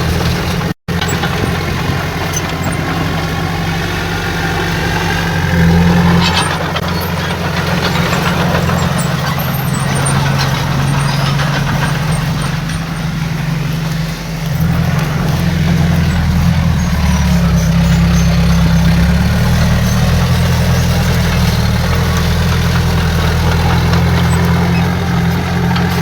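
Heavy diesel engine of earthmoving machinery running under varying throttle, its low note rising and falling a few times. The sound cuts out completely for a split second just under a second in.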